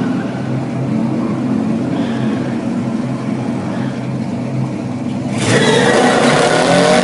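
Muscle car engine running with a steady low rumble, then revved hard about five seconds in, much louder with a rising note.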